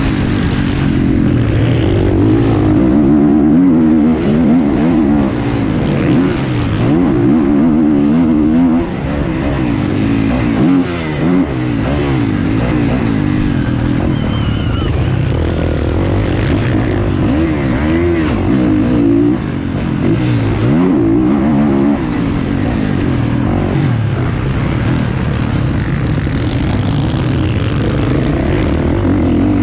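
450cc motocross bike engine revving hard and easing off again and again, its pitch rising and falling repeatedly through the whole stretch.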